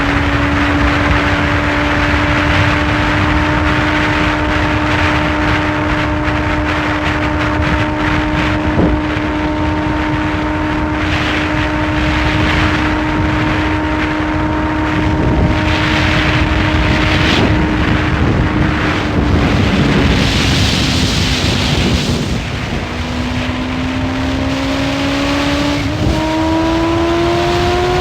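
Sport motorcycle engine cruising at a steady pitch with wind rushing past. About 20 seconds in it slows, then it picks up again and rises in pitch near the end.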